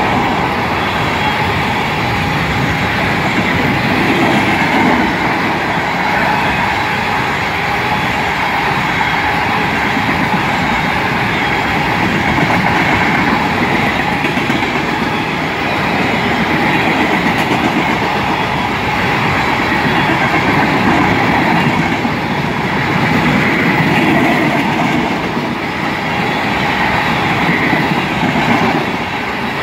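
Tank cars of a Canadian National freight train rolling steadily past: continuous steel-wheel noise and clatter on the rails, swelling and easing a little as the cars go by.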